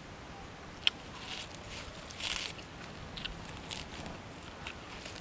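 Crunching bites and chewing of a raw leafy green stalk, in short crisp bursts, with a sharp click about a second in and the loudest crunch a little past two seconds.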